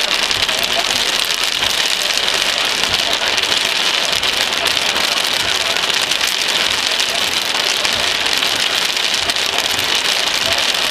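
Heavy thunderstorm rain falling steadily: a dense, even hiss of drops spattering, with no let-up.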